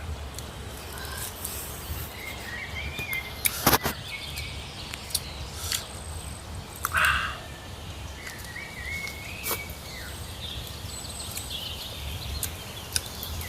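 Birds calling now and then over steady outdoor background noise with a low rumble. A sharp knock comes a few seconds in, and a short noise about halfway through.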